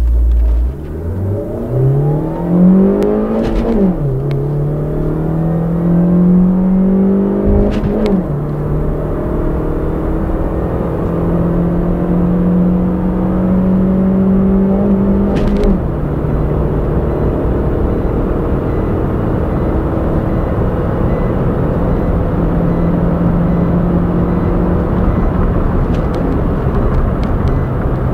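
Suzuki Swift 1.5 VVT's four-cylinder engine at full throttle through a manual gearbox, heard from inside the cabin. The note climbs and drops sharply at three upshifts, about four, eight and fifteen seconds in. After the last shift it rises slowly and stays high in top gear.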